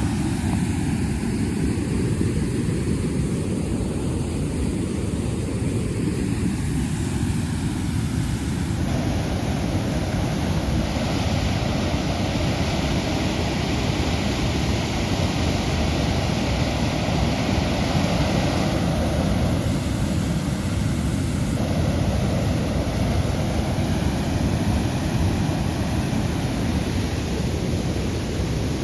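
Steady rumble of a motorcycle on the move, mixed with wind noise on the microphone.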